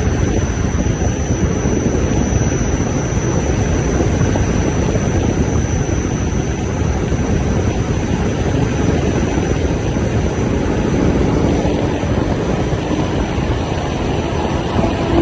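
Strong typhoon wind blowing hard and steadily, a dense rushing noise heaviest in the low range, with gusts buffeting the microphone.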